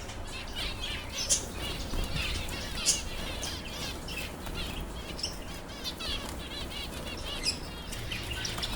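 A flock of small caged finches chirping continually with short, high, repeated calls, with some wing fluttering among them.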